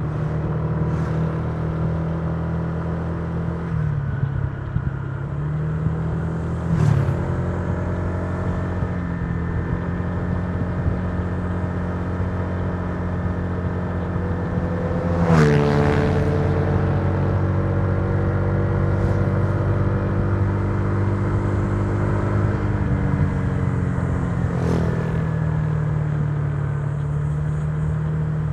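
Honda Giorno 125 scooter's single-cylinder four-stroke engine running under way at cruising speed. About halfway through there is a brief thump and the engine note rises as the throttle opens, then it eases back down near the end.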